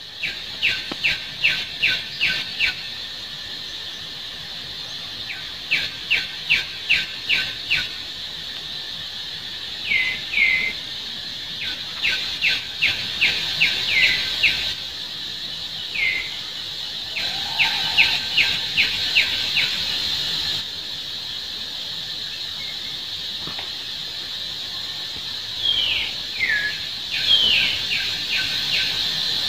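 A bird calling in runs of sharp, evenly spaced notes, about three a second, with a few short squeaky notes sliding downward in between. A steady high insect drone runs underneath.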